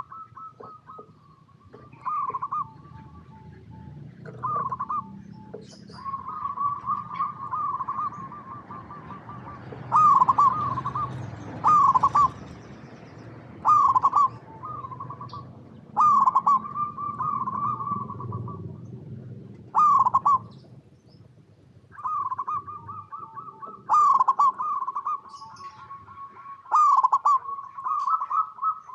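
Zebra doves cooing: about a dozen loud phrases of rapid, stuttering coos on a steady pitch, some drawn out into longer rolling trills, over a faint low rumble.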